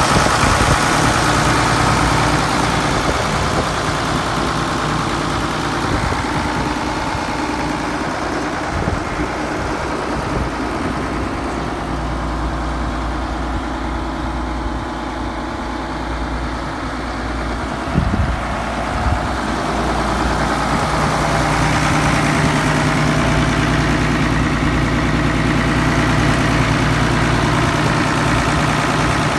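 1974 Case 970 tractor engine idling steadily. It softens somewhat in the middle and comes back fuller after about twenty seconds, with a short knock about eighteen seconds in.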